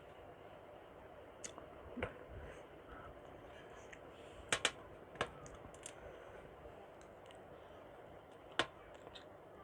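Close-miked eating sounds: a few scattered sharp mouth clicks and smacks, the loudest near the end, over a steady faint hiss.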